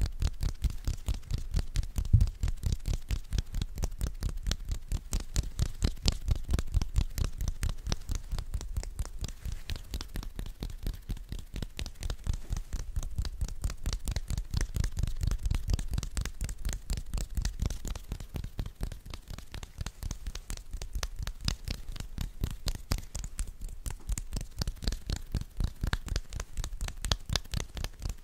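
Hand sounds made close to a sensitive microphone: quick, even strokes of palms and fingers, about six a second, each with a soft low thud and a crackly rustle.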